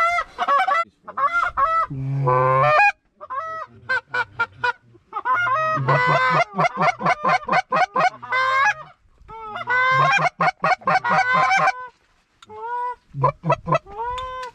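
Geese honking and clucking in quick runs of loud calls, broken by short pauses, with a few longer drawn-out honks near the end.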